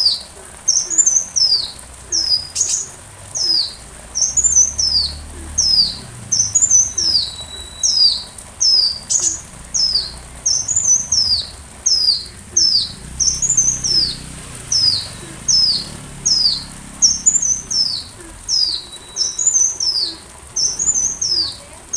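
A small sunbird (the bird Indonesian keepers call a kolibri) singing: a high, thin note sweeping downward, repeated a little more than once a second, now and then with a short flat whistle tacked on.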